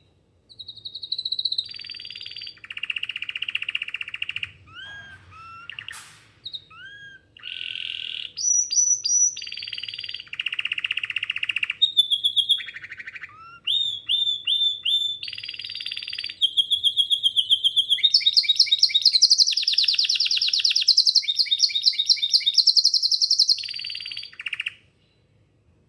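Domestic canary singing a long, loud song made of changing phrases: fast trills, rapid rolls and short whistled notes. The song stops about a second before the end.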